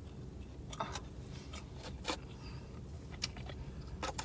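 Eating sounds: quiet chewing with a few short clicks and smacks, about one a second, over a low steady hum.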